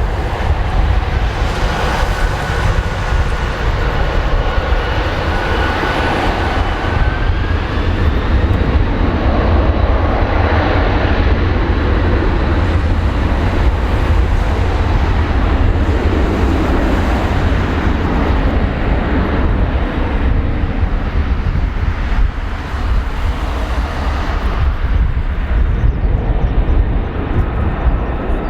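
Boeing 747-400F freighter's four turbofan engines at takeoff power, a loud steady jet roar with a faint whining tone over it.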